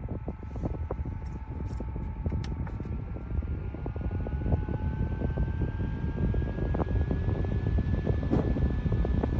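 Small USB desk fan running steadily, its motor whine slowly rising in pitch, with a low fluttering rumble of its air stream buffeting the microphone.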